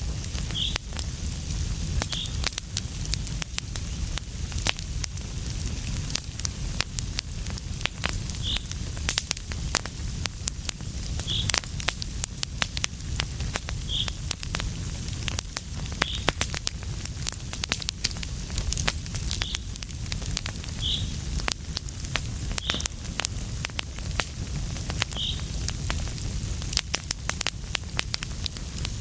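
Wood fire crackling with many sharp pops over a low steady rumble of flames. A short high-pitched chirp comes every few seconds.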